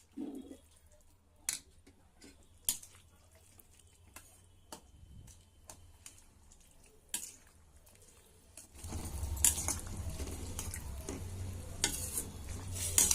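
A metal spoon stirring mashed potato into a pan of potato masala, with a few sharp knocks against the pan. About nine seconds in, a steady bubbling sizzle of the masala cooking comes up underneath.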